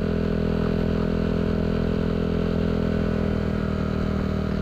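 Yamaha Aerox 155 scooter's single-cylinder engine running through a Villan SR1 aftermarket exhaust, held steady at middle revs of about 5000 rpm while riding at low speed.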